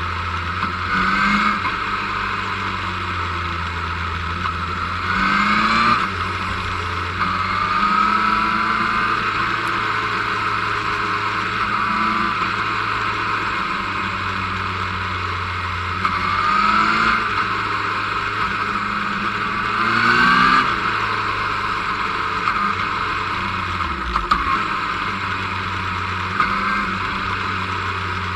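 Motorcycle engine heard from the moving bike, running steadily, its pitch rising in short pulls four times as it accelerates and dropping once about two-thirds of the way through as it slows, over a constant rush of wind and road noise.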